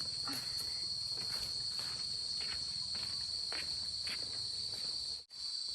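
Insects chirring in a steady, high-pitched chorus, with faint scattered ticks beneath. The sound cuts out for an instant about five seconds in.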